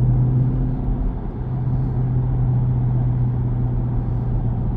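Chrysler 300C's 6.4-litre HEMI V8 running at a steady low hum under cruise, heard from inside the car over road and tyre noise. The engine note eases briefly about a second in, then holds steady.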